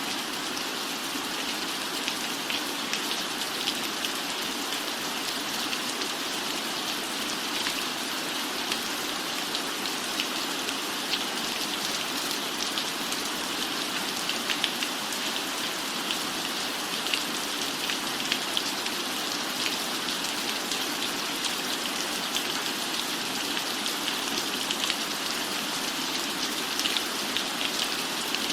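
Steady rain falling on a roof, a constant hiss with many individual drops ticking sharply through it.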